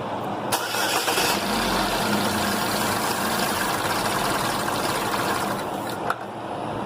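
2011 Chevrolet Equinox engine cranked by its starter and catching about a second in, then running until it cuts out about six seconds in. The engine has an intake camshaft position actuator solenoid control-circuit fault (P0010) and drivability problems.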